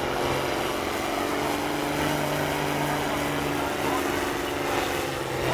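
International 1466 pulling tractor's turbocharged six-cylinder diesel running with a steady engine note.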